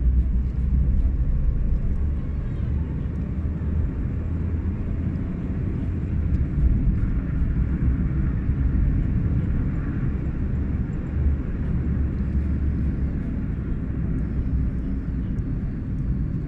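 Nissan Micra 1.5-litre four-cylinder turbo-diesel car on the move: a steady, deep rumble of engine and road noise.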